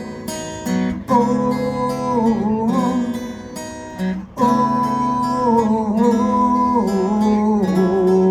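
Instrumental break: acoustic guitar strumming under a held melody line with several bent notes, with a short gap in the playing about four seconds in.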